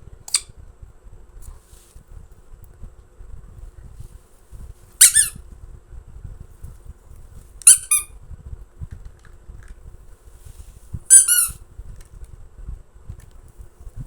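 Short, sharp, high-pitched squeaks, four times a few seconds apart, the third a quick double squeak, over a faint low rumble.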